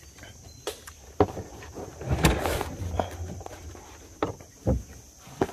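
Scattered knocks and rustling of handling, with a louder rush and knocking about two seconds in.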